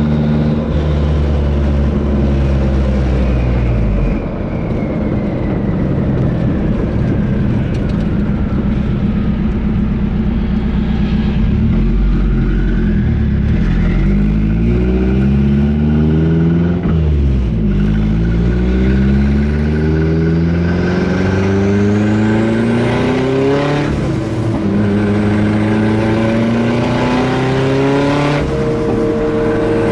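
Turbocharged KA24DET four-cylinder of a Nissan 240SX heard from inside the cabin under acceleration. Its pitch climbs and drops back several times as it goes up through the gears, with a faint high whistle rising in the later part. The car is being driven to check that it now makes boost after a new knock sensor and fuel filter.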